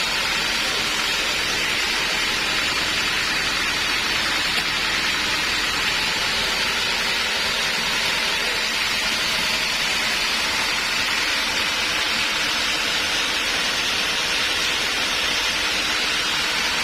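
Band sawmill cutting through a teak log: a steady, even rasping hiss of the blade in the wood, with a faint steady hum from the machine underneath.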